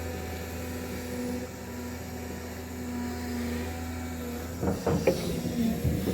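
Diesel engine of heavy earthmoving machinery running steadily. A few sharp metallic knocks come near the end.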